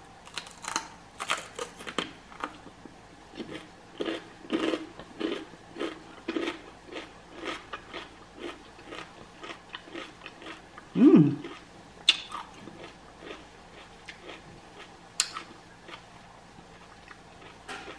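Close-up crunchy chewing of a raw jalapeño stuffed with cream cheese and Takis rolled tortilla chips: a bite, then crunching chews in quick succession that thin out after about ten seconds, with a short hum from the eater partway through.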